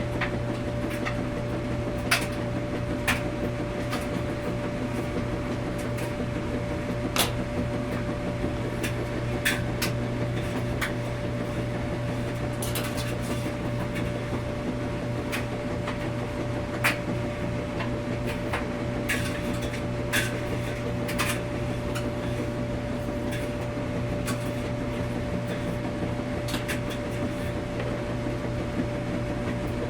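Washing machine running: a steady mechanical hum with a held tone, broken by sharp clicks and knocks at irregular intervals.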